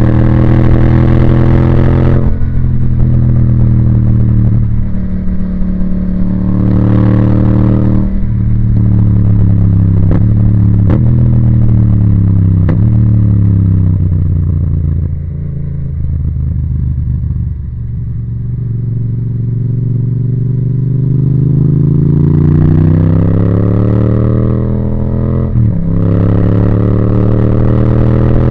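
2018 Yamaha MT-07's parallel-twin engine through an Akrapovic titanium exhaust, ridden on the road: the engine pitch climbs and breaks at several gear changes, eases off and drops in the middle, then pulls up through the revs again with another shift near the end.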